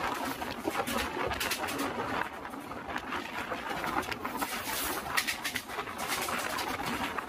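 Running noise of a moving passenger train heard from its open door: wheels clattering on the rails in a steady rush. From about four seconds in, an oncoming train hauled by a WAP-7 electric locomotive passes on the adjacent track, adding its own rush and clatter.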